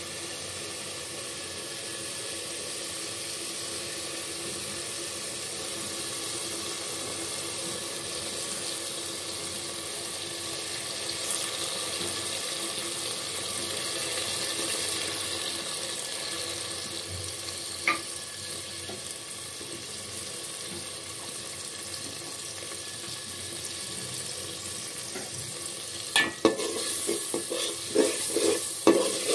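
Spice paste frying in oil in a metal pot, a steady sizzle. Near the end a spatula stirs it, with a run of sharp scraping strokes against the pot.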